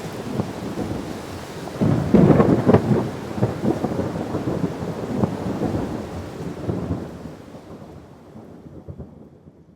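Thunderstorm: rain with rolling thunder, the loudest clap about two seconds in, then the rumble dies away toward the end.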